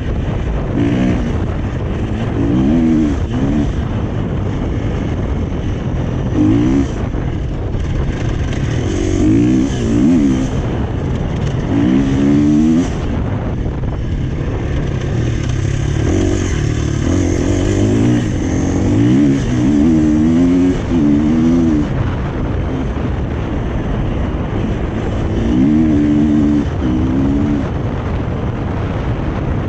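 Husqvarna FE 350's single-cylinder four-stroke engine through an FMF 4.1 exhaust, revving up and falling off again and again as the bike is ridden hard through the gears. Wind rushes over the microphone throughout.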